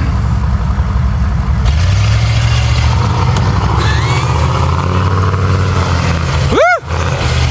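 Diesel pickup engine running under load, revving up about two seconds in and holding higher. Near the end a brief loud squeal rises and falls in pitch.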